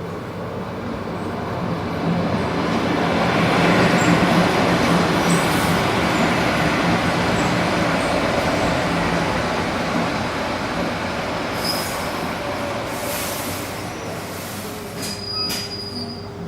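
Electric suburban train rolling on the rails: wheel and track noise swells to a peak a few seconds in, then slowly fades, with brief high wheel squeals near the end.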